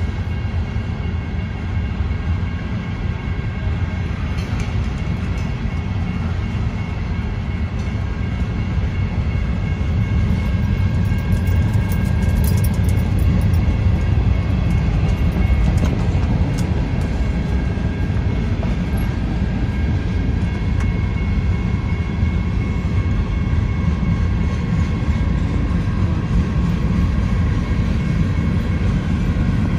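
Train passing a level crossing: a steady low rumble that grows somewhat louder about a third of the way in, with a few thin, steady high tones over it.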